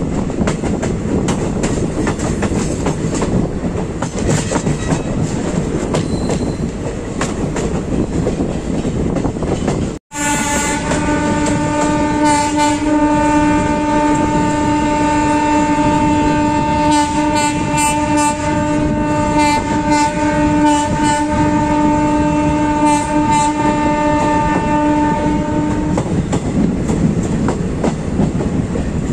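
Passenger train of ICF coaches running, wheels clicking over rail joints. About ten seconds in, after a brief dropout, a train horn sounds one long steady note for about fifteen seconds while the running and clicking go on.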